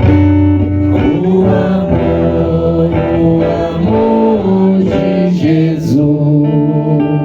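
Voices singing a devotional hymn in Portuguese with guitar accompaniment, holding long notes in a slow melody.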